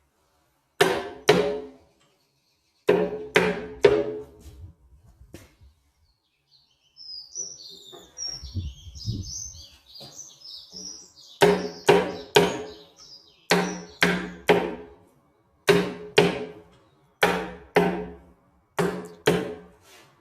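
Sharp knocks on solid wood, coming in quick runs of two to four blows with a ringing tone, as a nail-free live-edge slab TV stand is knocked apart at its joints. Birds chirp in the pause between runs, a little past a third of the way in.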